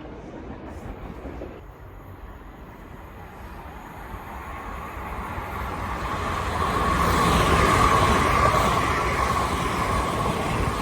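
A passenger train approaching and passing, growing louder from about three seconds in to a peak near eight seconds, with a steady whine over the running noise.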